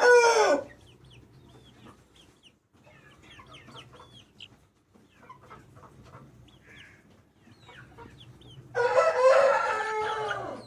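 Aseel rooster crowing twice: the end of one crow right at the start and a full crow of about two seconds near the end, each a long pitched call that falls away at its close. Faint short chirps from other chickens in between.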